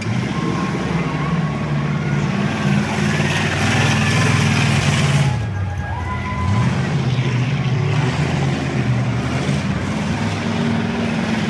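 Race car engines running hard around a dirt track, their pitch wavering as they accelerate and ease off. About halfway through the sound drops briefly, then climbs again in a rising rev.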